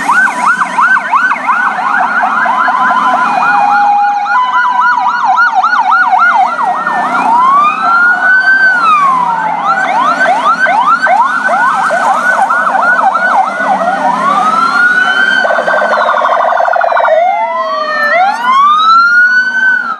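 Ambulance electronic siren, switching between a fast yelp of quick repeated sweeps and a slower rising-and-falling wail, with a short rapid buzzing pulse about three-quarters of the way through.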